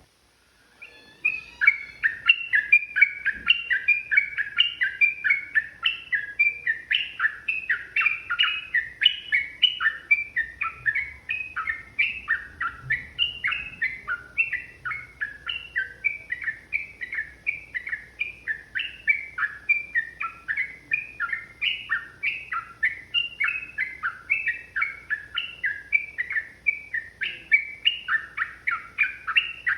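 Yellow-vented bulbul (trucukan) singing a long, rapid, unbroken run of short bubbly notes, several a second, starting about a second in.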